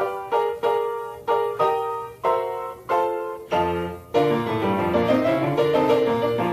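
Background piano music: a series of struck chords, each fading before the next, then a quicker, flowing run of notes from about four seconds in.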